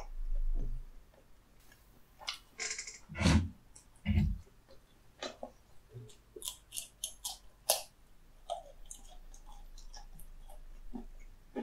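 Close-miked eating: biting into and chewing crispy battered Korean fried food (twigim), with a run of sharp crackly crunches in the middle. Two loud dull thumps come a few seconds in.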